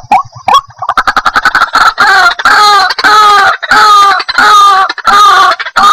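White-breasted waterhen calling: a fast, quickening run of short clicking notes, then loud, harsh repeated calls, about three every two seconds.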